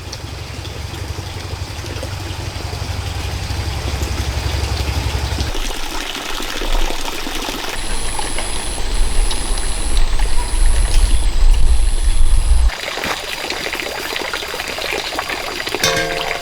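Running water trickling steadily, under a low rumble that changes abruptly twice. A faint high-pitched whine comes in four short pulses partway through.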